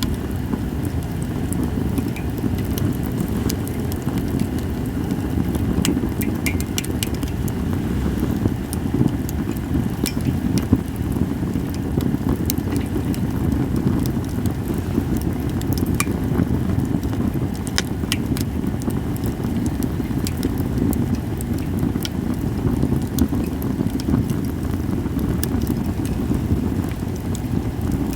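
Japanese cedar (sugi) campfire crackling, with irregular sharp pops over a steady low rumble.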